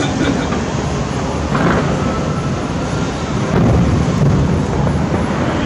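Distant fireworks display: a continuous rumble of shell bursts and booms, growing louder from about three and a half seconds in.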